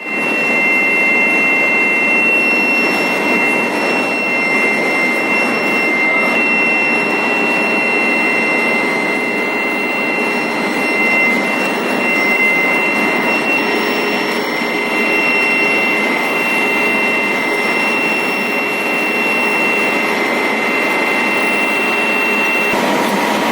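Long-bar induction heating line running: a steady, high-pitched whine of two close tones over a loud, even machine noise. Near the end the high whine stops and a lower steady tone takes over.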